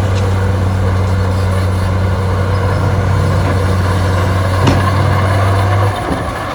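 Heavy diesel engine of earthmoving machinery running steadily with a low drone, with a single sharp click a little over four and a half seconds in; the engine note cuts off suddenly near the end.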